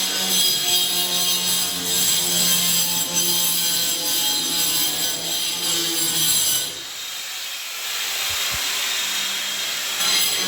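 A power tool cutting or grinding metal with a high, steady whine. It stops about two-thirds of the way in and starts again just before the end.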